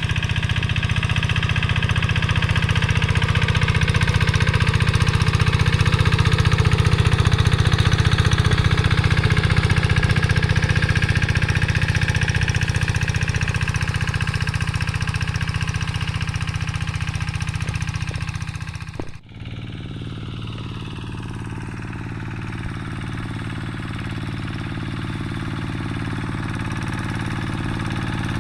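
Diesel engine of a Quick G3000 two-wheel hand tractor running steadily under plowing load. About two-thirds of the way through, the sound breaks off sharply and resumes a little quieter, with the engine still running.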